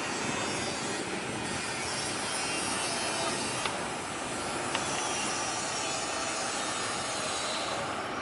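Jet airliner engines running, a steady rushing noise with two faint clicks near the middle.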